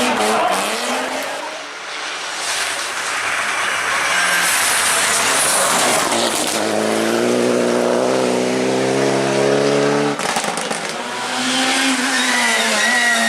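Rally car engine at high revs passing at speed, with tyre and road noise. From about six and a half seconds in, the engine note holds steady for about three and a half seconds, then cuts off suddenly.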